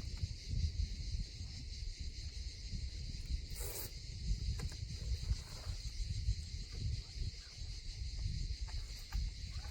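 Steady high-pitched drone of insects in a summer forest, with wind rumbling on the microphone and a few brief rustles, one a little under four seconds in.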